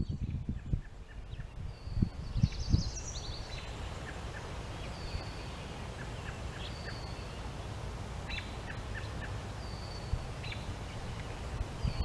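Birds calling over a steady outdoor hiss: short, high, thin notes every two seconds or so, with a quick run of notes about two to three seconds in. A few low bumps in the first three seconds.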